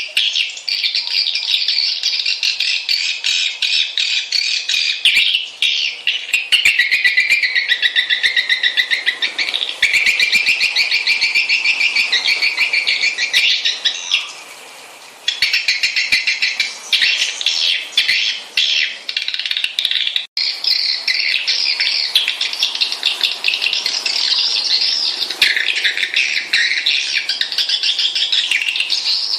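Swiftlet lure call: many swiftlets twittering in dense, rapid, high chirps and trills, with a lull of about a second halfway through. It is a call recording of the kind played to draw swiftlets into a nest house to roost.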